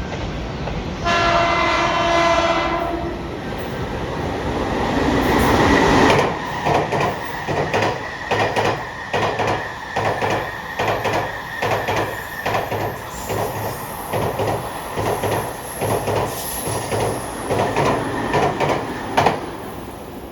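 A Japanese train's air horn gives one blast of about two seconds, several tones together. The train then runs past with a steady rhythm of wheel clatter over the rail joints, under a thin steady whine, fading away near the end.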